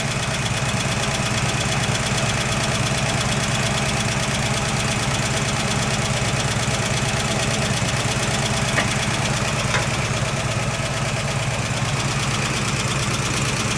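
1969 AMC Javelin's carbureted 290 V8 idling steadily on its first run after six months of storage, with a light regular tick that the owner puts down to a lifter that has not yet pumped up.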